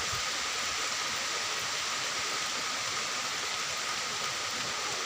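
Rain falling steadily, an even hiss that stays constant throughout.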